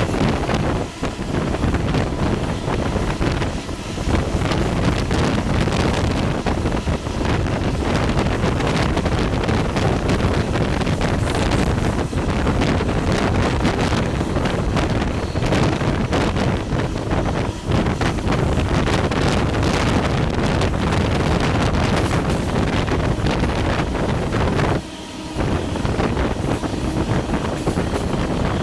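Wind buffeting the microphone over the steady running noise of a moving passenger train, dipping for a moment near the end.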